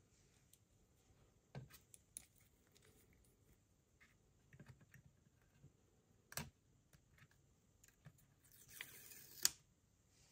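Faint, scattered clicks and light handling noises of small parts being worked by hand. Near the end comes a brief rustle that ends in a sharp click.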